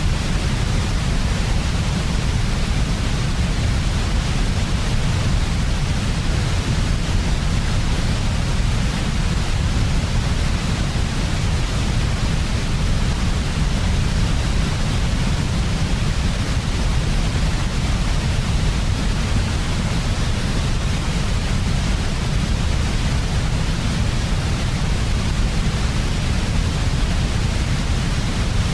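Steady electronic white noise for lulling a baby to sleep: a deep, even rumble with a softer hiss on top, unchanging throughout.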